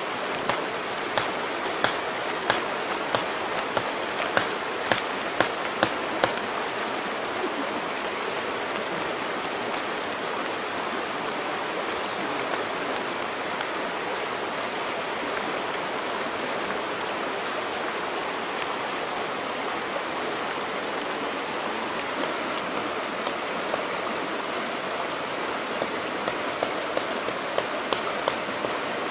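Campfire cooking: a steady hiss with sharp crackles and pops, which come thick in the first few seconds, fade out, and pick up again near the end.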